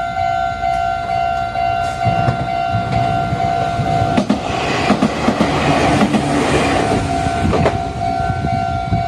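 Japanese level-crossing warning bell ringing in a steady repeating tone while a Meitetsu electric train runs over the crossing, its wheels clattering over the rail joints, loudest between about four and eight seconds in.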